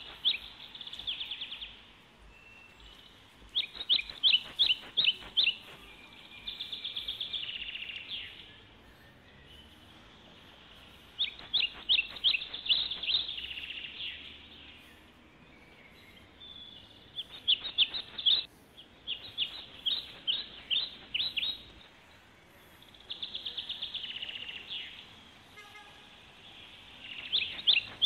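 A songbird singing the same short phrase over and over, about every five to six seconds: a run of loud, sharp chirps followed by a fast trill, over faint low background noise.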